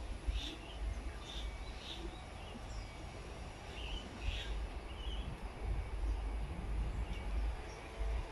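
Park ambience: short bird chirps every second or so over a low, uneven rumble.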